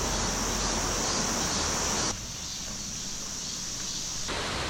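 Insects buzzing steadily in a high, even band over a hiss of outdoor ambience, changing abruptly about two seconds in and again near the end.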